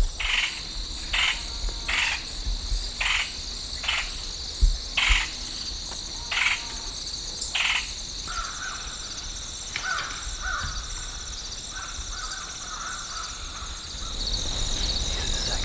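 A bird giving a run of about nine short calls roughly a second apart, then fainter, lower calls, over a steady high-pitched insect chorus.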